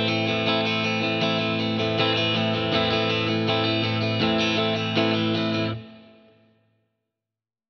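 Guitar strumming chords in a steady, repeating rhythm pattern. About six seconds in, the strumming stops and the last chord rings out and fades to silence.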